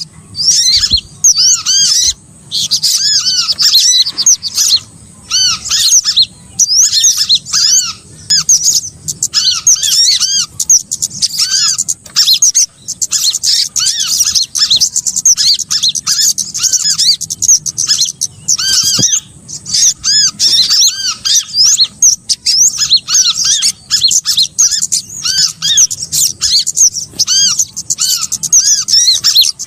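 A dense chorus of small songbirds calling, with many short, arched, high chirps repeating and overlapping almost without a break. It is a bird-trapping lure recording of mixed small-bird calls.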